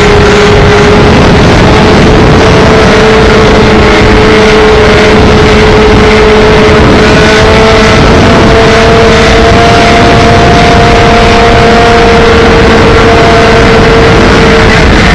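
Motorcycle engines running loud and steady, the recording heavily overloaded, with a steady drone that creeps slowly up in pitch.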